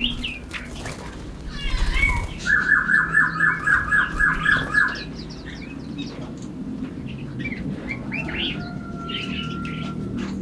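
Forest birds singing and calling, with a loud run of about ten quick repeated notes, about four a second, from about two and a half seconds in to about five seconds in, and scattered chirps and a thin held whistle later. A steady low background noise runs underneath.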